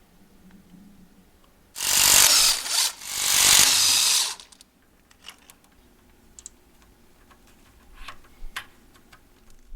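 A power tool running in two bursts of about a second each, the second a little longer, followed by a few light clicks and knocks of tools and parts.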